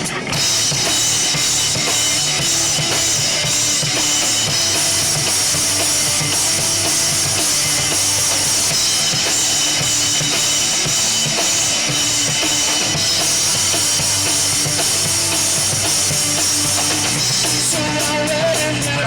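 Rock band playing loudly, the drum kit to the fore with bass drum and a wash of cymbals. Near the end the cymbal wash stops and separate drum hits lead into the verse.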